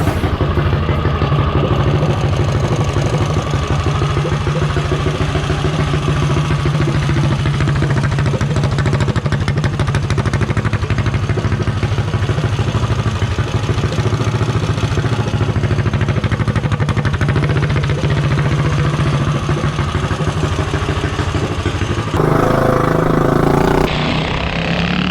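Predator 212 single-cylinder engine with a high-compression Shred Head cylinder head, on a Coleman CT200U-EX mini bike, running at a steady pitch. About 22 seconds in the note turns louder and brighter for a couple of seconds.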